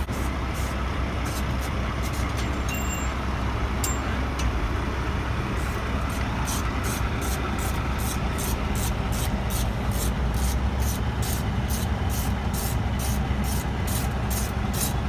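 Ratchet wrench clicking about two to three times a second, steadier in the second half, over a steady low rumble of traffic.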